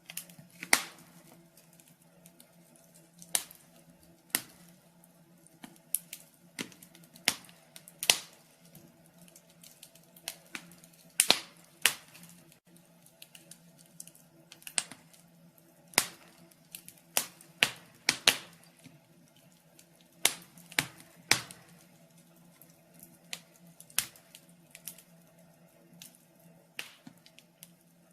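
Wood fire crackling in a fireplace: irregular sharp pops and snaps of burning logs, some much louder than others, over a faint steady hum.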